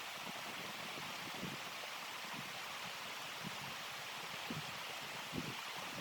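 Steady hiss of blizzard wind, with a few soft low thumps.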